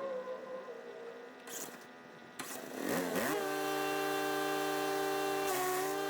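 The wood chipper's 420cc four-stroke engine revs up about halfway through and settles into a loud, steady run, with its note dipping briefly near the end. Before that, a fainter engine note.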